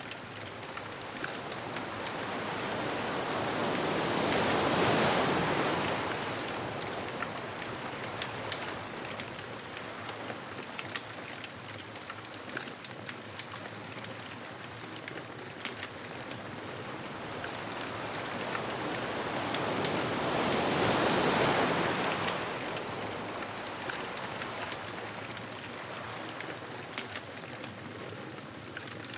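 Ocean waves breaking and washing up the beach, two swells rising and falling about sixteen seconds apart. Under them a bonfire crackles steadily, with frequent small sharp pops.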